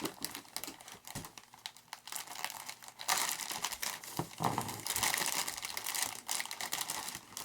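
Plastic wrapping crinkling and packing tape being peeled off as a taped-up model airplane part is unwrapped, in uneven crackly spells that get louder about three seconds in.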